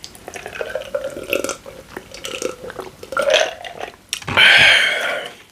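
Close-miked burping and mouth sounds from a man eating a sandwich. The loudest sound is a noisy one, about a second long, near the end.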